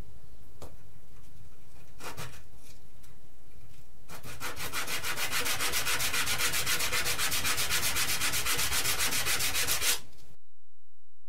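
Hand sanding, most likely of a wooden part of the rubber-band revolver: quick back-and-forth rubbing strokes, about eight a second, begin after a few light handling clicks and cut off suddenly near the end.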